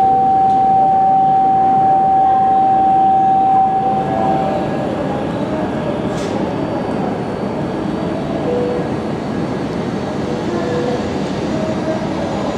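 Shinkansen train running alongside the platform: a steady rumble with a held whine that stops about four and a half seconds in, after which the rumble carries on a little quieter.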